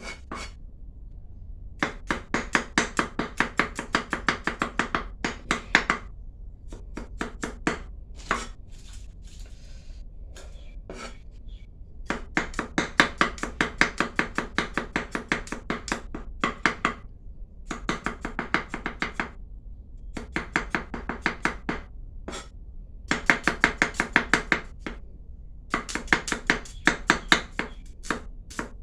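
Knife chopping quickly on a cutting board: fast, even strokes in runs of a few seconds, broken by short pauses.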